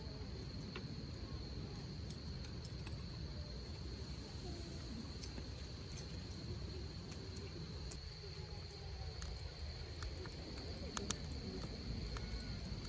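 Crickets trilling in one steady high tone, over a hardwood campfire crackling with scattered sharp pops and a low rumble.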